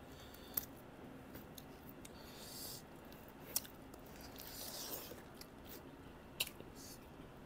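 Close-up eating sounds of people eating rice and meat with their fingers: soft chewing and mouth noises, with three sharp smacking clicks about three seconds apart and two brief spells of crinkly rustling.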